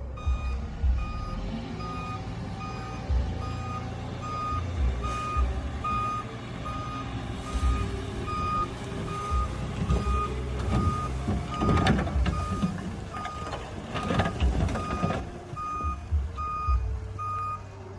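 A heavy earthmoving vehicle's reverse alarm beeping steadily, a little under two beeps a second, over the low running of a diesel engine. The beeps stop shortly before the end, and there are two louder surges of noise in the middle.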